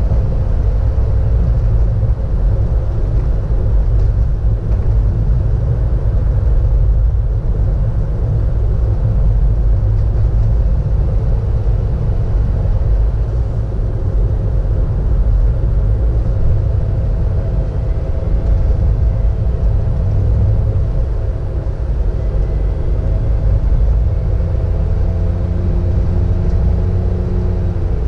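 Car driving along a road, heard from inside the car: a steady low rumble of engine and tyre noise, with a faint engine tone coming through over the last few seconds.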